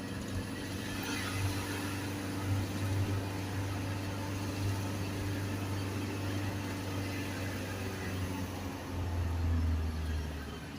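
Isuzu garbage truck's diesel engine running steadily as the truck drives. About nine seconds in, the engine note drops deeper and grows louder, then fades near the end.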